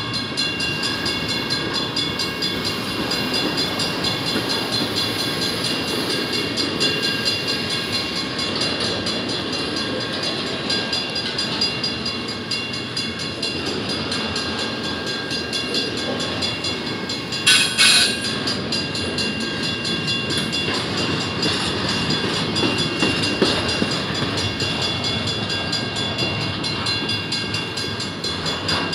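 Double-stack container well cars of a freight train rolling past: a steady, loud rumble of steel wheels on rail with high steady tones ringing over it. About two-thirds of the way through, a brief loud sharp burst of noise stands out above the rumble.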